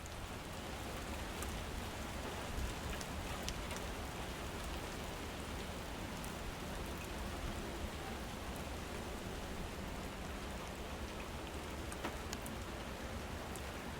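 Heavy rain falling steadily, a constant hiss with scattered sharp drop impacts.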